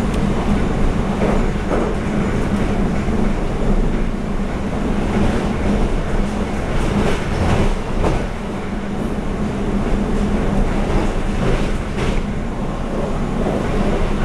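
Taiwan Railway EMU700 electric train running at speed, heard from inside the passenger car: a steady rumble of wheels on rail with a low steady hum and a few sharp clicks over the track.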